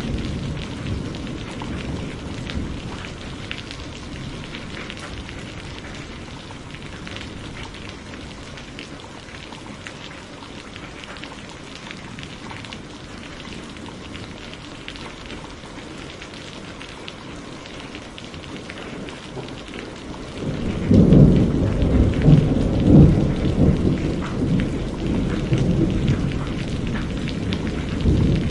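Steady rain pattering, with a low rumble of thunder that eases off in the first few seconds. A louder, heavier rumble of thunder comes in about three-quarters of the way through.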